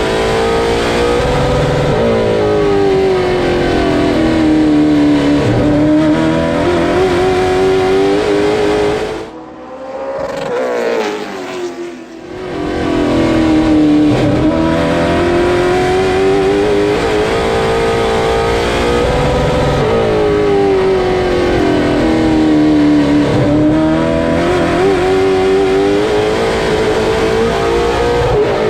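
Late model stock car's V8 engine at racing speed on a short oval. Its pitch climbs and falls in long regular swells, rising on the straights and easing off into the turns, lap after lap. The sound drops away briefly about a third of the way in, then returns.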